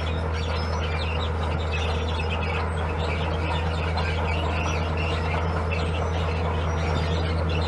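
Heavy diesel construction machine's engine running at a steady low drone, with short high chirps over it.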